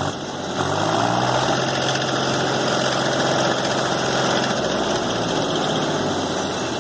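Mahindra tractor's diesel engine running steadily. Its revs step up about half a second in and ease off slightly near the end.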